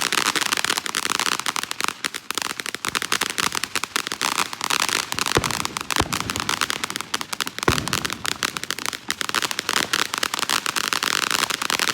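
Consumer fireworks crackling in a dense, rapid stream of pops, with a few louder single bangs about halfway through.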